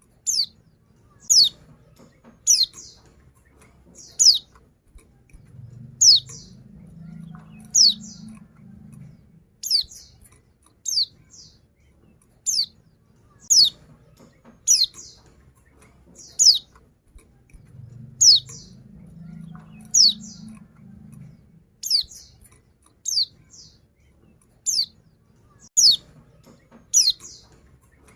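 Female white-eye (pleci) giving short, sharp, high call notes about once a second, each falling in pitch and some followed by a fainter second note. These are a female's calls to a male, the kind used to lure a silent male into singing.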